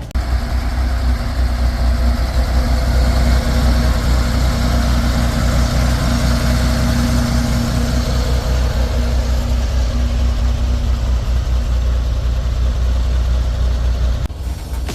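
Turbocharged air-cooled flat-six engine of a 1963 Chevrolet Corvair Spyder idling steadily.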